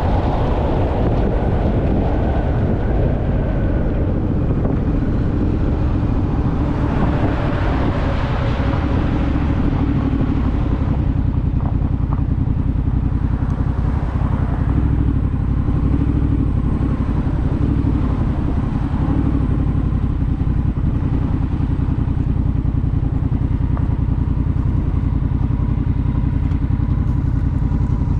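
Honda Rebel motorcycle's parallel-twin engine running steadily, with wind rushing over the microphone that swells and fades about a third of the way through.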